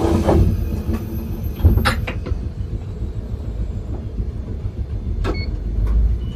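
Keifuku Randen train running along the track, heard from the driver's cab: a steady low rumble of wheels and running gear, with several sharp clacks, a cluster about two seconds in and more about five seconds in, typical of wheels passing over rail joints.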